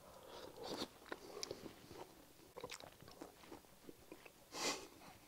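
Faint mouth sounds of a man chewing and tasting a mouthful of fish stew. Scattered small clicks, with a brief louder noise near the end.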